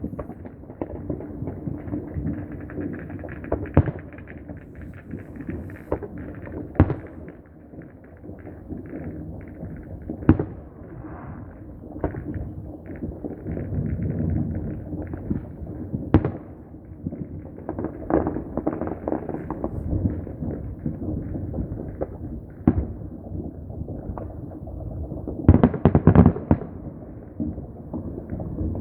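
Fireworks and firecrackers going off: a constant run of crackling pops with louder single bangs every few seconds, and a quick cluster of the loudest bangs near the end.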